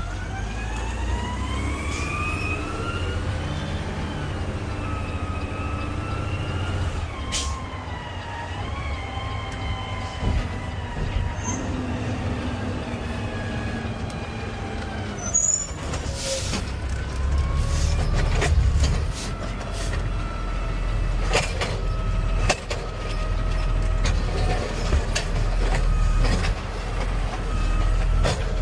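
Garbage truck running under way: a drivetrain whine rises as it pulls away, drops back around 4 and 8 seconds in as it shifts up, and falls away around 15 seconds in as it slows. Over a steady low engine rumble there are scattered clanks and knocks, mostly in the second half.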